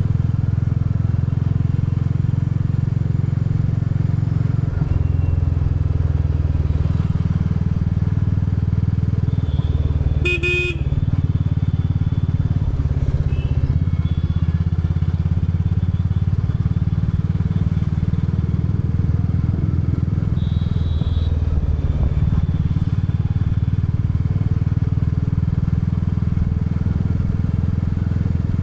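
Royal Enfield Bullet 350's single-cylinder engine and exhaust running steadily as the motorcycle cruises along the road. A horn sounds briefly about ten seconds in.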